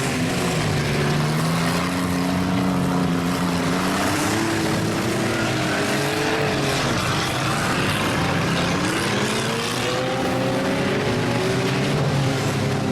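Several demolition derby cars' engines revving against each other, their pitches rising and falling as the drivers throttle up and back off, over a steady wash of engine noise.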